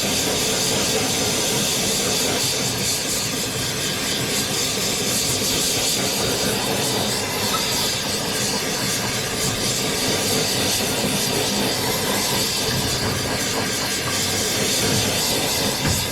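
Steady, loud hiss of gas rushing out under pressure, unbroken and unchanging.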